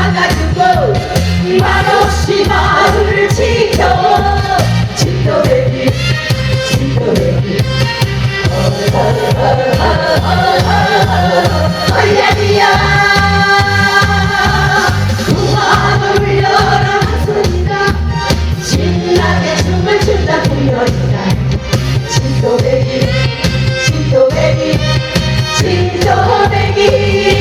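Live Korean song performance: sung vocals over band accompaniment with a steady beat.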